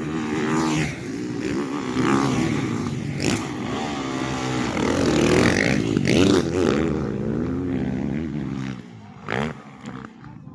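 Several motocross dirt bike engines revving up and down as the bikes race past, their pitches rising and falling over one another. The engines fade about nine seconds in, with one brief rev just after.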